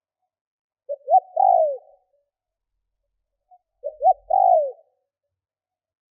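Spotted dove cooing: two phrases about three seconds apart, each a couple of short notes followed by a longer note that falls away at the end.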